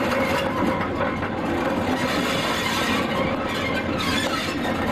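A convoy of dead Deutsche Reichsbahn steam locomotives and tenders is towed slowly past without steam. The sound is a steady rumble and rattle of wheels and running gear on the rails, with a faint steady squeal.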